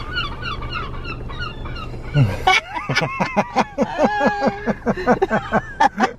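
Seagulls calling: a run of short, repeated cries over a steady low hum. About two and a half seconds in the hum stops and the calling turns louder and faster, with quick sharp cries and a few longer held notes.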